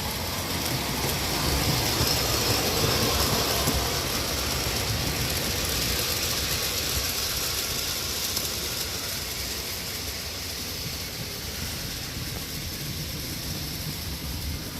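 O-gauge model diesel train running along the track, its motors, gears and wheels making a steady mechanical rattle. It is loudest a couple of seconds in and eases off slightly after that.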